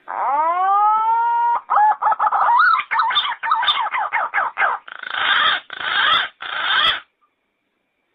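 Yellow-footed green pigeon singing: a whistled note that rises and is held for about a second and a half, then a quick run of short warbling whistles, ending in three harsher, buzzier notes before it stops near the end.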